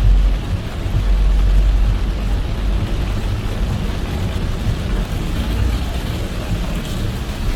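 Car driving in heavy rain: a steady low road and tyre rumble under an even hiss of rain and wet road spray. The rumble is heaviest for the first two seconds or so, then eases a little.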